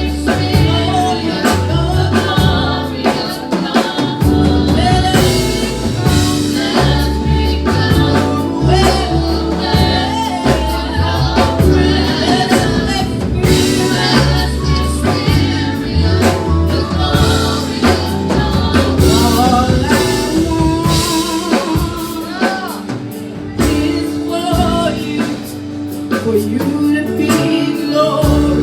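Gospel worship music: voices singing over a band with a strong bass line and drums.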